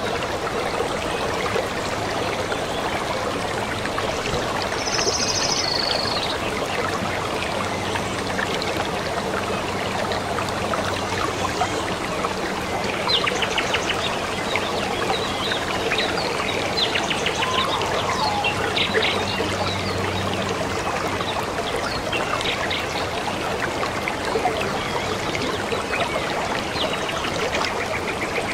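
Stream of water trickling and flowing steadily, with birds calling now and then: a high whistled note about five seconds in and a run of short chirps in the middle.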